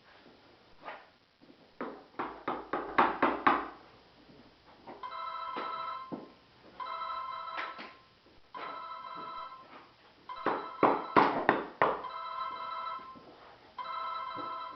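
A telephone ringing with an electronic ring tone, about one ring every two seconds, starting about five seconds in. Sharp knocks and taps come before and between the rings.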